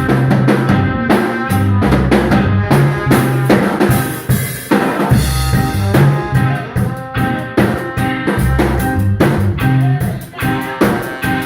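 A live instrumental band playing, with a drum kit (snare and bass drum) driving the beat under held bass notes and guitar. A cymbal wash comes about halfway through.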